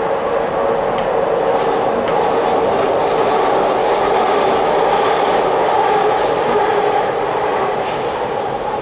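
Steady running noise of a moving vehicle, a continuous rumble with a hum in the middle pitches that swells slightly and eases off near the end.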